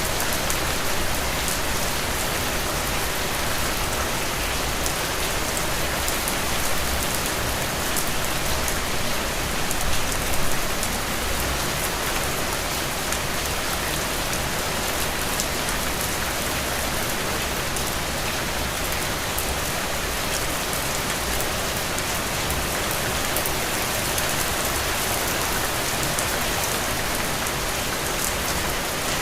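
Steady rain falling on a surface, a dense hiss with many small drop patters, briefly a little louder about ten seconds in.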